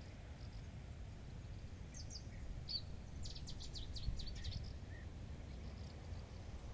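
A small songbird giving a short run of quick, high chirps, starting about two seconds in and ending about five seconds in, over a low steady background rumble.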